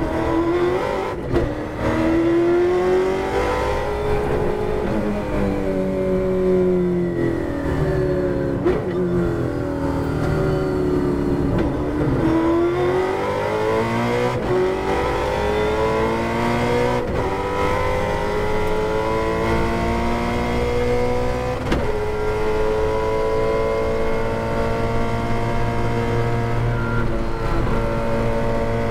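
Holden Torana touring car's V8 engine heard from inside the cabin at racing speed, its revs rising and falling through the corners with sharp drops at gear changes. About halfway in it climbs hard through several upshifts, then holds a high, steady note near the end at about 250–260 km/h.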